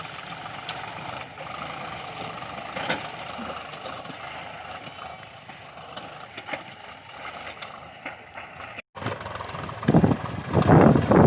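Diesel engine of the tractor or backhoe loader running steadily at idle, with a few light clicks. About nine seconds in there is a short break, then louder, irregular noise near the end.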